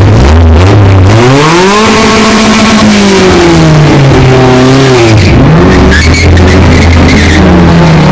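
Loud car engine revved up, held briefly at higher revs and let back down to idle, then revved again near the end.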